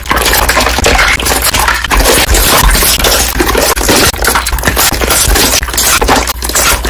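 Slime being worked by hand, its trapped air bubbles popping in a dense, loud, continuous crackle.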